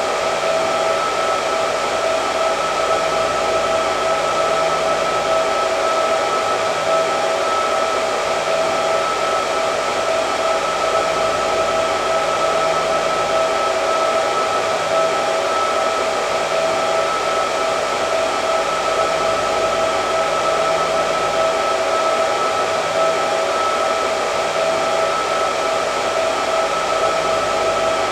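Hair dryer running continuously: a steady rush of air with a constant motor whine, unchanging throughout.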